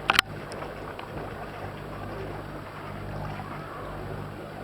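A boat's engine humming steadily under a wash of water and wind noise, with a couple of sharp clicks right at the start.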